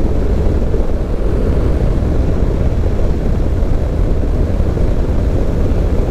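Steady low rumble of a vehicle driving along a road: engine and road noise with no change in pace.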